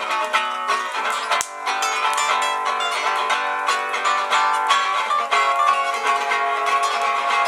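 Acoustic guitar played with a quick, steady run of picked notes.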